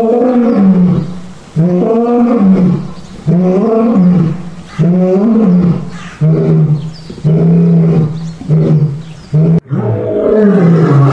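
Lion roaring in a bout: about five long roars, each rising and falling in pitch, then a run of shorter grunting roars, and another long roar near the end.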